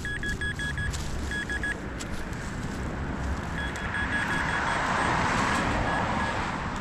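Metal detector sounding a target: short, quick beeps at one pitch in runs of four or five, repeated as the coil sweeps over a buried object. A steady background rush swells up in the middle.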